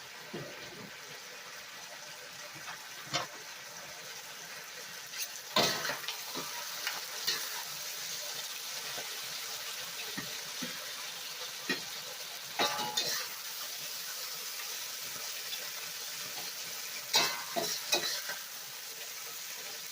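Chicken and Chinese broccoli sizzling in a hot wok, a steady frying hiss, with sharp clinks and scrapes of the utensil against the wok a few times as it is stirred.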